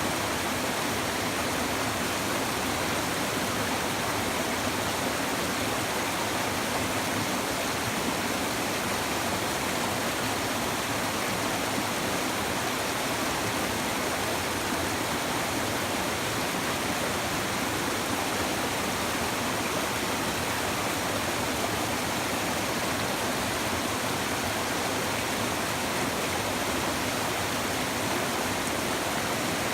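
A river's shallow water babbling over stones: a steady, even rush of water with no break or change.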